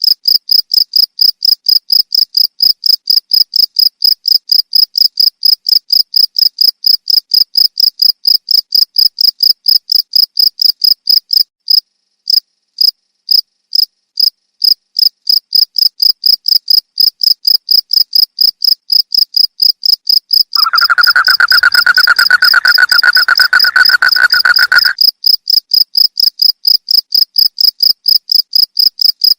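Crickets chirping in rapid, evenly spaced high-pitched pulses that stutter briefly about twelve seconds in. Past the middle, a lower, steady trill joins them for about four seconds.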